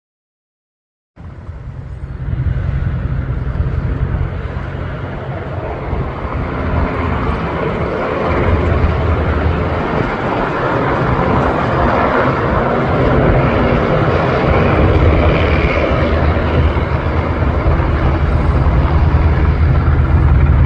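Airplane flying past: steady engine noise with a deep rumble that starts about a second in and slowly grows louder.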